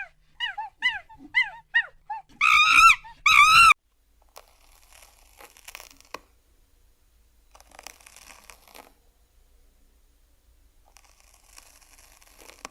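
A puppy's high, rapid yips and whines, about two a second, ending in two louder drawn-out whimpering calls; then only faint rustling and crunching, three times.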